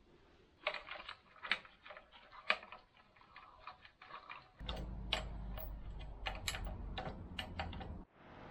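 Irregular metallic clicks and taps of hand tools working on motorcycle parts. About halfway through, a steady low hum starts under the clicks and cuts off just before the end.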